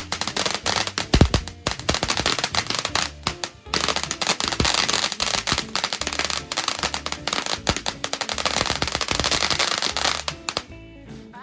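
Firework crackling: a long, dense run of rapid pops with hiss, stopping near the end, over background music.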